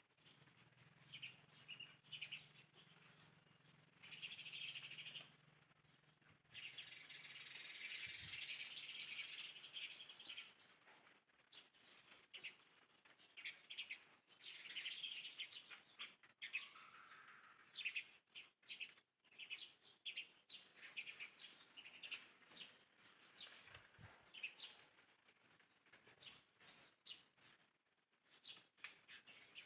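Birds chirping faintly, many short high calls, thickest into a busy stretch about eight seconds in, with a faint low hum underneath early on.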